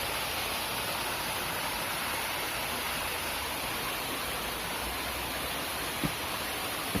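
Mountain spring-water stream running with a steady rush of water, with two soft knocks near the end.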